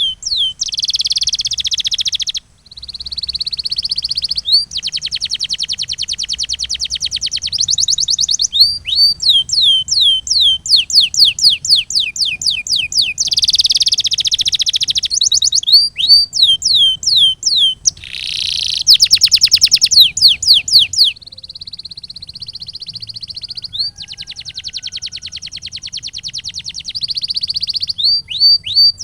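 Domestic canary singing: a run of phrases that alternate between strings of quick falling whistled notes and fast, even rolling trills, each phrase lasting a second or two before switching. The song breaks off briefly about two and a half seconds in.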